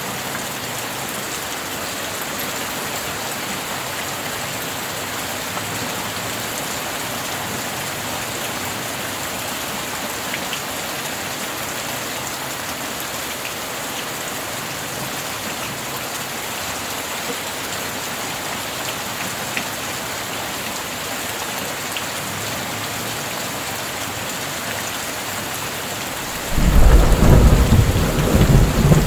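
Steady rain falling. Near the end, thunder breaks in suddenly with a loud, deep rumble that is still going as it ends.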